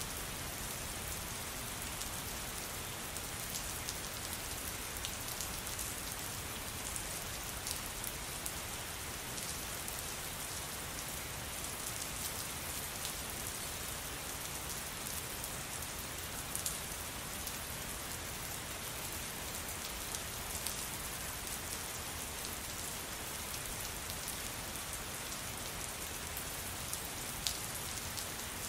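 Steady rain falling, a constant hiss with scattered louder drop ticks.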